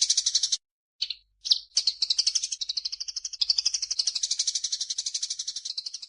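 Songbird chattering in a fast run of high chirps, about a dozen a second. It breaks off abruptly about half a second in and, after a couple of lone notes, picks up again and runs on.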